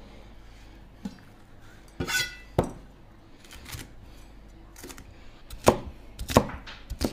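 Chinese cleaver chopping chili peppers on a plastic cutting board: a run of separate, uneven knocks, about one every half second to a second.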